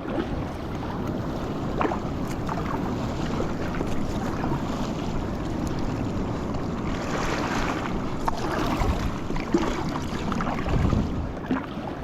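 Wind buffeting the microphone over sea water washing and splashing around a paddled fishing ski, with a few light knocks and a louder splash about seven seconds in.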